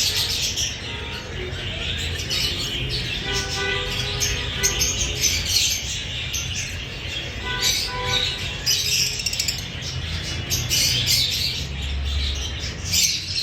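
Lovebird chattering continuously with high, rapid chirps and sharp squawks.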